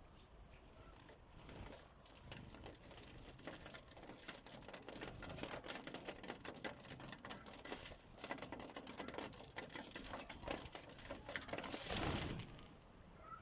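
Birds pecking seed on a feeder: rapid, irregular tapping and scratching that grows busier, with a louder flurry near the end.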